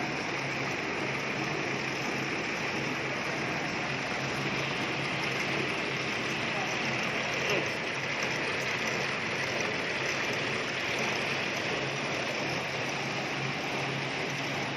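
Machinery running steadily: an even rushing noise over a constant low hum.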